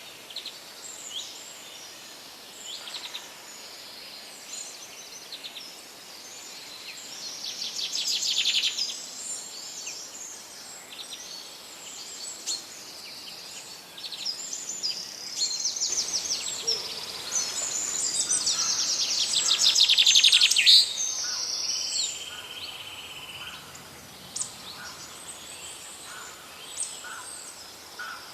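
Several songbirds chirping and trilling over a faint background hiss, with the loudest rapid trills about eight seconds in and again between about seventeen and twenty-one seconds in.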